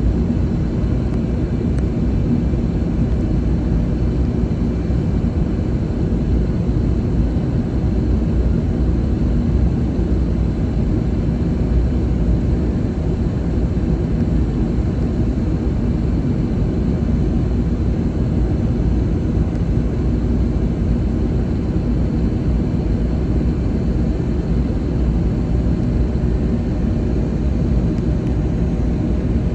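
Steady low rumble of an Airbus A321neo heard inside the passenger cabin, engine and airflow noise holding even throughout.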